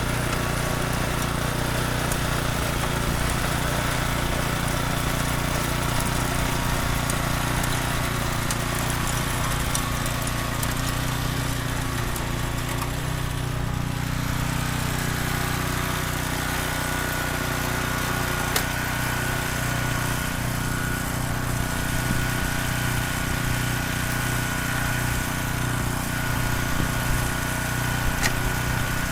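Small petrol engine running steadily at an even speed, with a steady whine that grows stronger about halfway through.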